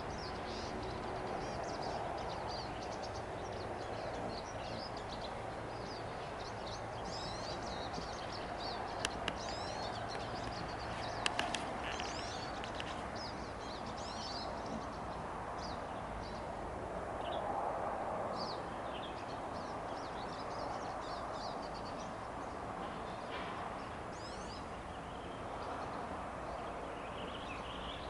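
Small birds chirping and singing over and over, short high notes and quick sweeps, against a steady background hiss of outdoor ambience. Two brief sharp clicks come a couple of seconds apart near the middle.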